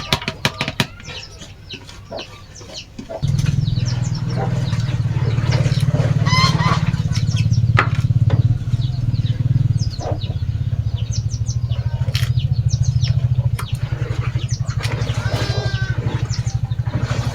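Chickens clucking and calling. About three seconds in, a low, evenly pulsing engine sound starts suddenly and keeps running steadily, louder than the birds.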